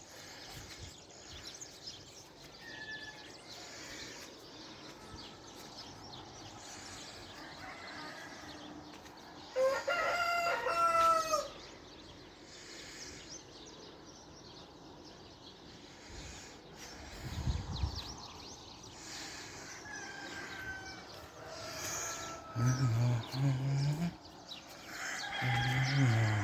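A rooster crows once, loudly, about ten seconds in, over faint chirping of small birds. Near the end come several low, drawn-out animal calls.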